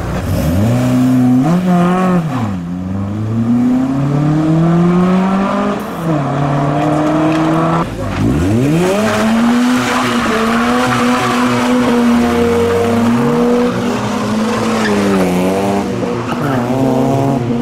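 A car engine revving hard as the car pulls away, its pitch repeatedly climbing and dropping, with a sharp drop and climb about eight seconds in. Tyres squeal in the middle stretch, as in a burnout or drift.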